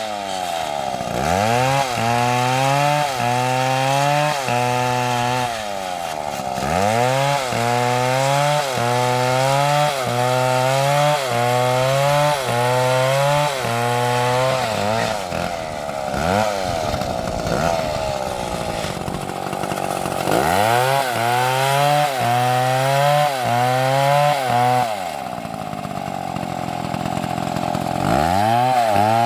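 Large two-stroke chainsaw cutting into a big tree trunk at high revs. Its pitch sags and recovers about once a second as the chain bites under load, with a couple of short lulls where the revs drop before it goes back into the cut.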